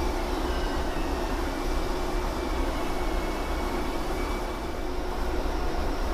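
Metal lathe running steadily as it turns a steel shaft, a constant hum with a steady mid-pitched tone over an even hiss.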